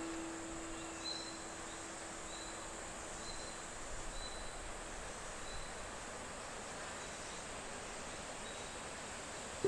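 A steady hiss with short, faint high chirps recurring about once a second, like a nature ambience track, while a held music note fades out in the first few seconds.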